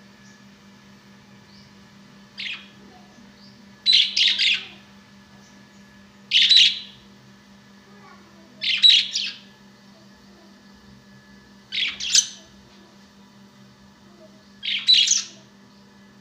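Pet parrot calling: six short, harsh calls, some of them doubled, spaced two to three seconds apart. A steady low hum runs underneath.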